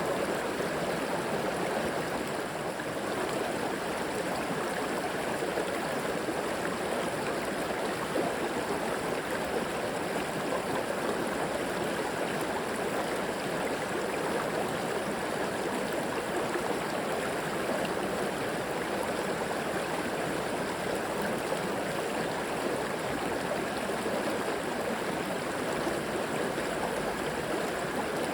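River water flowing steadily over rocks, an even rushing babble.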